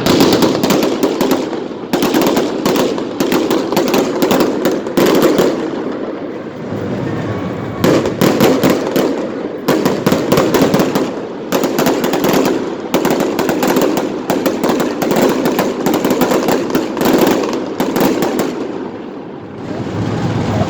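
Aerial fireworks going off in rapid, overlapping volleys of bangs and crackles, easing briefly near the end before picking up again.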